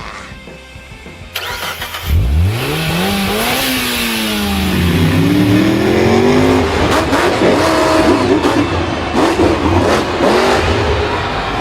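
A vehicle engine revs up about two seconds in, its pitch climbing, dipping and climbing again. It then runs hard with crackling and rattling until the end.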